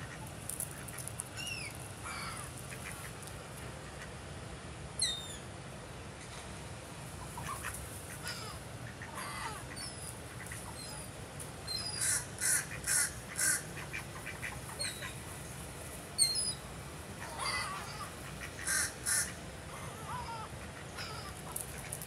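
Wild birds calling: scattered short chirps and sweeping whistles, with a quick run of about five loud calls a little past the middle and two more a few seconds later.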